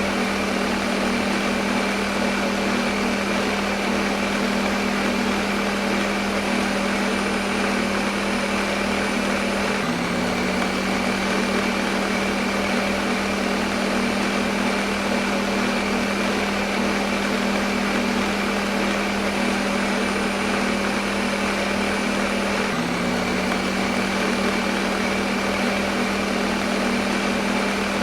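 Electric kitchen blender running steadily: a motor hum over an even whirring noise, used as white noise. The hum's pitch jumps briefly about ten seconds in and again near the end.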